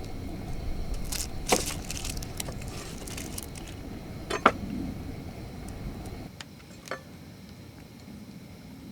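A few separate sharp knocks and clinks of cooking utensils and dishes being handled, over a low background rumble that drops away about six seconds in.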